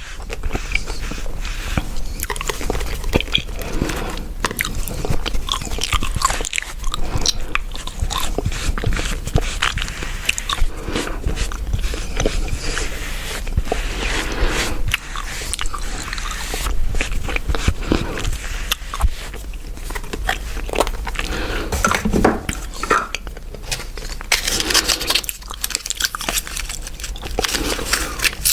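Chewing gum close to the microphone: a continuous run of chewing with many small sharp clicks and snaps.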